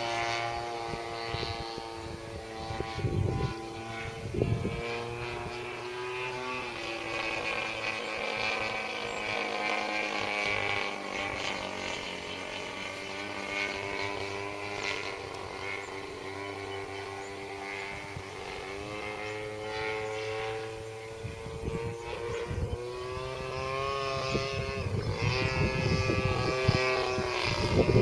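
RC model airplane's motor and propeller buzzing in flight, the pitch rising and falling as the plane passes and changes throttle. Wind gusts on the microphone rumble a few seconds in and again toward the end.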